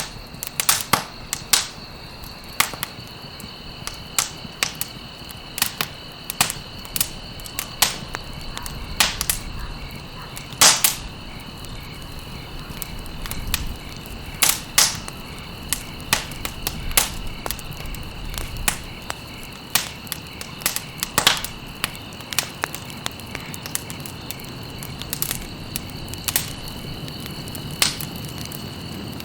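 Campfire crackling, with sharp irregular pops of burning stalks over a steady low rush of flame. A steady high-pitched tone runs underneath.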